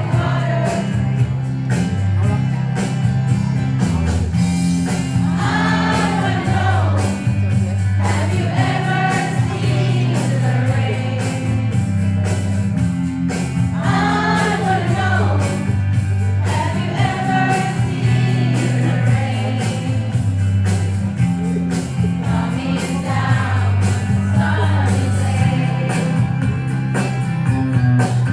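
A group of students singing a song together over a recorded backing track with a steady bass line.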